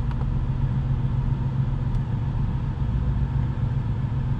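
Paxton-supercharged 5.0-litre V8 of a 2017 Ford Mustang GT idling steadily, a low even hum heard from inside the cabin.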